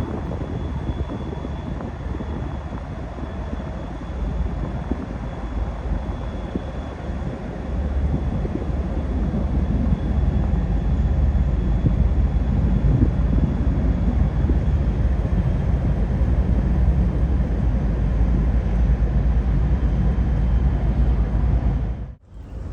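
Steady low rumble of wind buffeting the microphone, mixed with distant engine noise. It grows louder about a third of the way in and again at the halfway point, then cuts off suddenly near the end.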